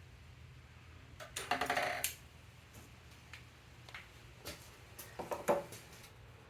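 Metal parts and tools being handled: a short clattering rattle with some ringing about a second and a half in, then a few separate clicks and knocks, over a steady low hum.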